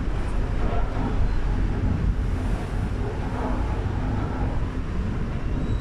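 Strong wind blowing over the microphone, with a steady low rumble of a passenger ship underway in rough seas.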